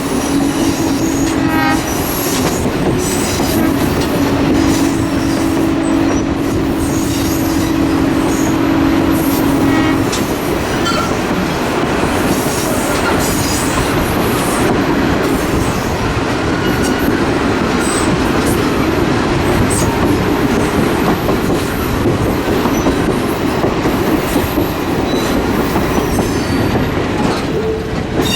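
Train running with steady wheel and rail noise, its horn sounding two long blasts in the first ten seconds.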